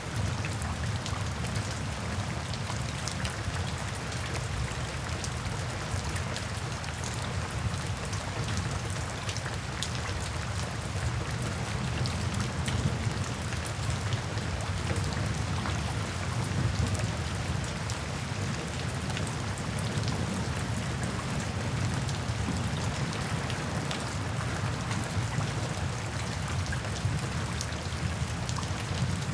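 Steady rain falling, with many small drop ticks over a continuous low rumble.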